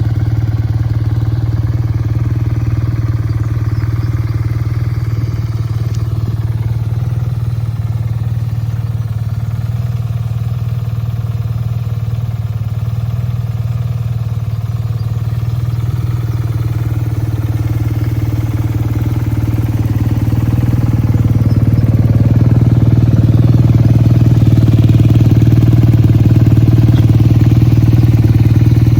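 BMW R 12 G/S motorcycle's boxer-twin engine and exhaust running at a steady note, growing louder about two-thirds of the way through.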